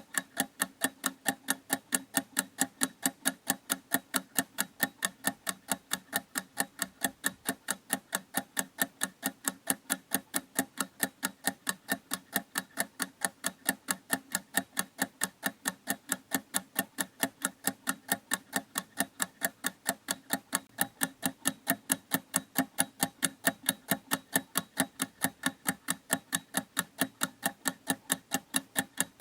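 A clock ticking in a steady, even rhythm, several sharp ticks a second.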